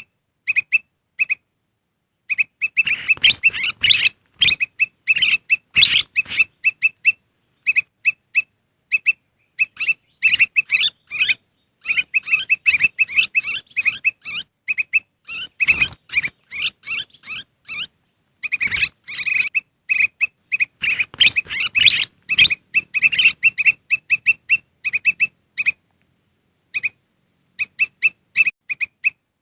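Kutilang emas (a bulbul) calling in fast runs of short chirps repeated at one pitch, a lure call for attracting wild birds. The runs are broken by a few brief dead-silent gaps, and in the busier stretches several birds' calls overlap.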